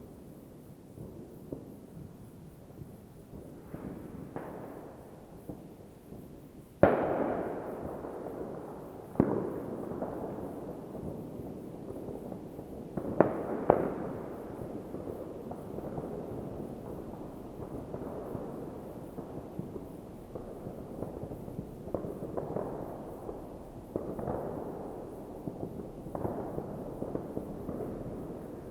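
New Year's Eve fireworks bursting in the distance: scattered sharp bangs, each trailing off in a long rolling rumble. The loudest bangs come about seven seconds in, then twice more over the next seven seconds, with smaller, softer pops near the end.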